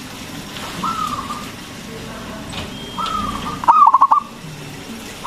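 Zebra dove (perkutut) cooing: a drawn-out rising-and-falling note about a second in and another about three seconds in, then a loud quick run of about five clipped notes, the bird's stuttering song phrase.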